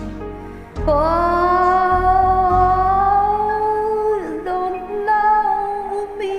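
A woman's singing voice holds one long wordless note, then dips briefly and holds a second note, over a soft karaoke backing track.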